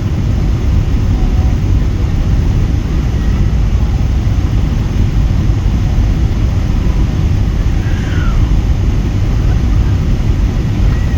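Airliner cabin noise: the steady, loud low rumble of engines and airflow heard from inside the passenger cabin during the arrival.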